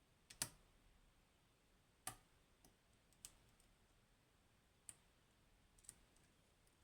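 Sparse, faint clicks of a lock pick working the pins of a Goal Z pin-tumbler lock with spool drivers; about six clicks, the loudest near the start.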